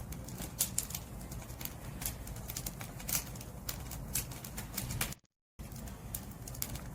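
Wood fire crackling and popping, with frequent sharp snaps over a steady low rumble of burning. The sound cuts out completely for a moment about five seconds in.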